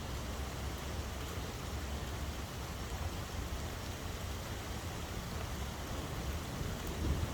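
Steady rain falling in an even hiss, with a constant low rumble underneath.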